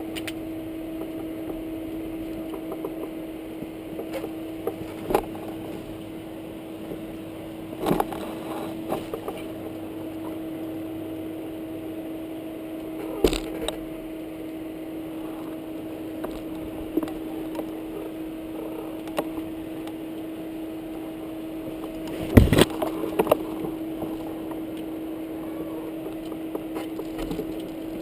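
Dirt bike engine running at a steady, unchanging pitch, with a few sharp knocks and rattles: a couple about a third and halfway through, and a louder cluster of them late on.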